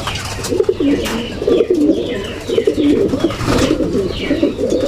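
Many racing pigeons cooing together, overlapping low cooing throughout, with higher chirps and a few sharp clicks among them.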